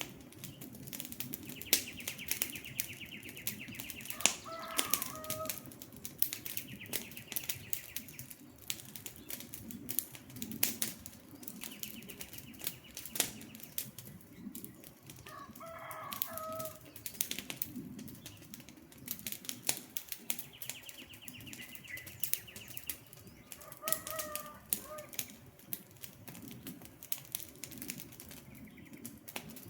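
Wood fire crackling with dense sharp pops. A bird gives short pitched calls three times, about ten seconds apart, and a rapid high trill repeats in between.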